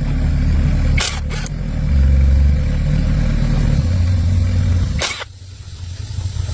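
Tractor engine running with a low rumble that rises and falls in level. Sharp clicks break in about a second in and again about five seconds in, after which the rumble drops away.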